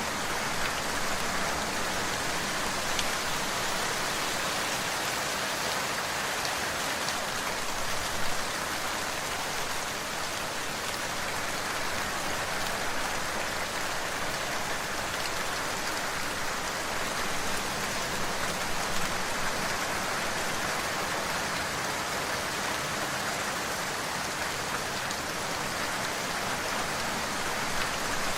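Steady, even rainfall with individual drops pattering on a surface, no lulls or thunder.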